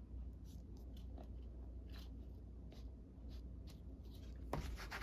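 Faint paper and craft-material handling: scattered small ticks and soft rustles over a low steady hum, with a louder rustle near the end.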